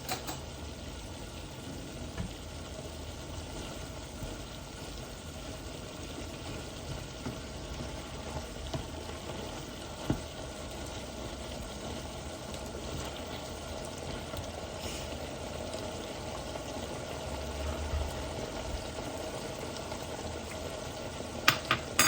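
Stir-fried chicken and vegetables in a chili-paste sauce sizzling steadily in the pan, with a sharp click of a utensil about halfway through and two more near the end.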